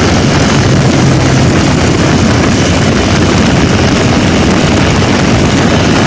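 Loud, steady rush of moving-vehicle noise from a motorcycle-and-locomotive race, with a brief low hum about a second in.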